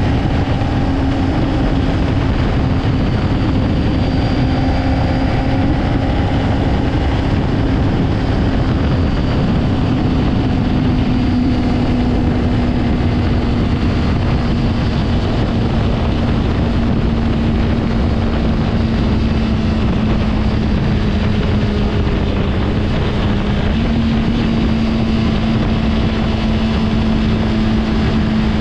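2024 Honda CBR600RR's inline-four engine running under a steady throttle. Its pitch sags slowly and then steps up near the end, with wind noise on the microphone throughout.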